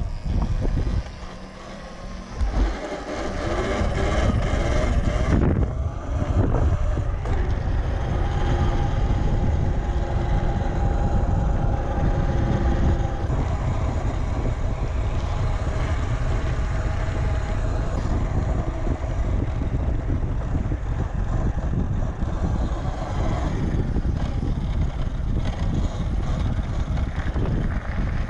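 Wind buffeting the microphone over the running noise of a Talaria Sting electric dirt bike on the move. A faint steady whine comes through in places.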